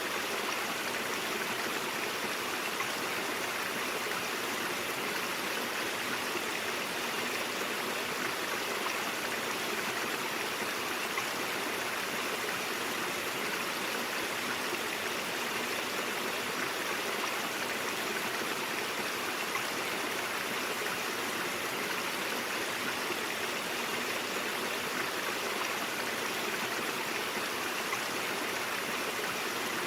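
Mountain stream water running over rocks, a steady, even rush and babble with no breaks.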